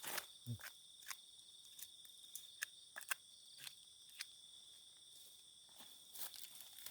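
Night insects such as crickets trilling steadily and high, with irregular crunching footsteps on the ground.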